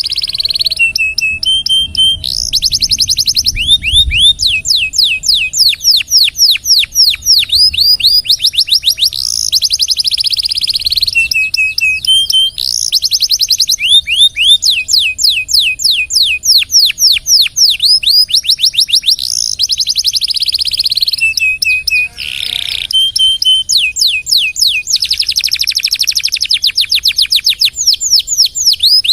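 Domestic canary singing a long, unbroken song of fast repeated downward-sweeping notes and rolling trills, with a brief harsher note about two-thirds of the way through.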